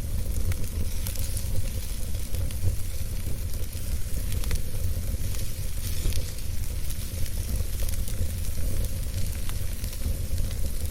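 Wood campfire burning, with a constant hiss and many small, soft crackles over a steady low rumble.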